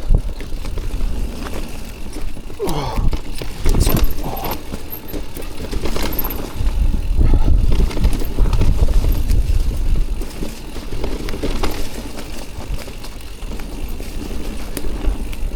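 Electric mountain bike rattling and clattering as it is ridden over rough, rooty trail, with many short knocks and clicks from the frame and chain and heavy wind rumble on the microphone.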